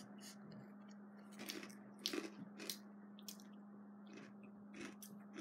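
A person chewing a crunchy grilled-corn okaki rice cracker: faint, crisp crunches come irregularly, several over a few seconds.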